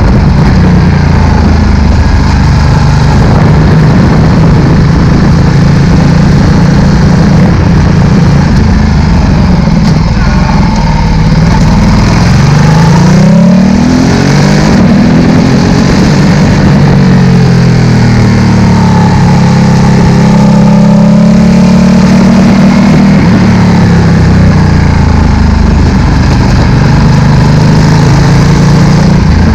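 Ducati Multistrada 1260's 1262 cc Testastretta V-twin through a Termignoni slip-on exhaust, loud. It idles, is revved up and back down about halfway through, then revved again and held higher for a few seconds before dropping back to idle.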